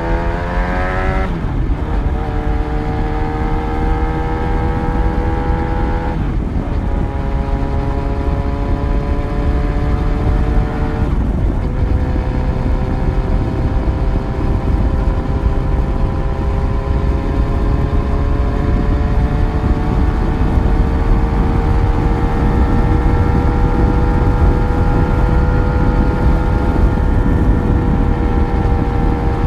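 Yamaha FZ1's inline-four engine pulling through the gears under acceleration. Its pitch climbs and drops three times, about one, six and eleven seconds in, as it shifts up. After that it settles into a steady cruise, its pitch rising only slowly.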